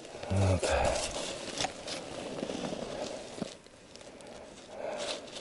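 Rustling, crackling and scraping handling noises on snow and ice, with a short grunt about half a second in.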